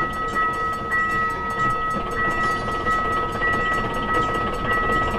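A train running, with two steady high-pitched tones that drop out briefly now and then, rapid regular ticking and a rumbling noise underneath.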